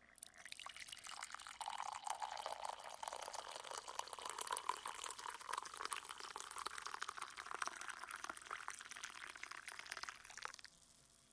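Liquid pouring, a faint steady trickle dense with tiny drips and pops, fading out about ten seconds in.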